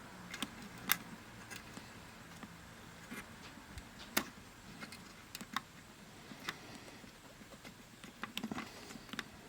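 Faint, scattered light clicks and taps at irregular times, the sharpest about a second in and about four seconds in, with a flurry of small ticks near the end: a thin jumper wire and small tools being handled and fitted on the multimeter's circuit board.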